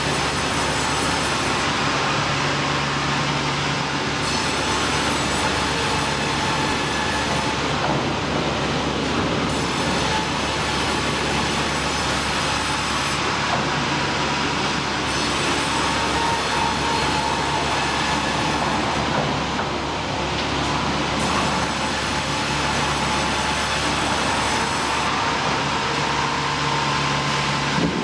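Sawmill machinery running steadily: a continuous rumble with a constant low hum, never stopping or changing.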